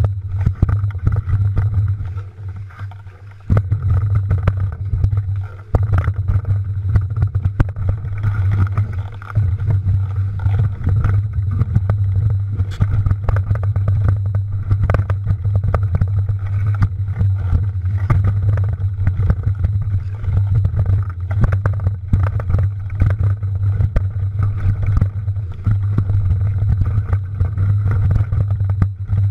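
Wind rushing over the microphone with a steady low rumble and constant rattling knocks from a mountain bike riding over rough trail. It eases off briefly about two seconds in.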